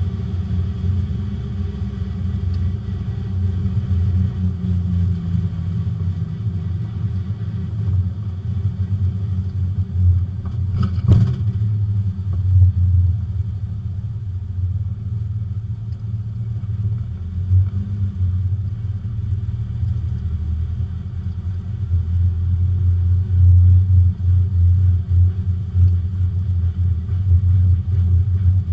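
Porsche 924 race car's four-cylinder engine heard from inside the car, running with a steady drone and small swells in level. There is a single sharp knock about eleven seconds in.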